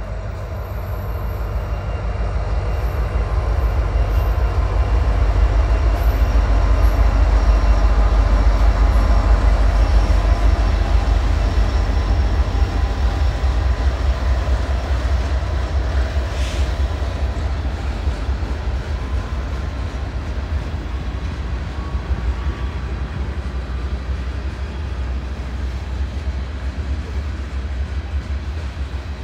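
Freight train rolling across a stone viaduct: a heavy, continuous low rumble that builds to its loudest several seconds in, then carries on steadily as a string of covered hopper cars goes by.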